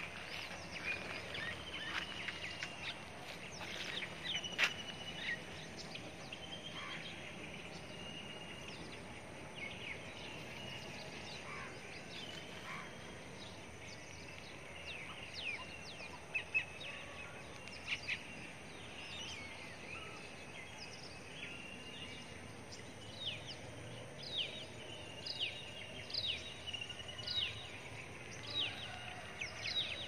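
Birds chirping and calling over a faint steady outdoor background, in many short, high notes. In the last several seconds one bird repeats a quick falling chirp over and over.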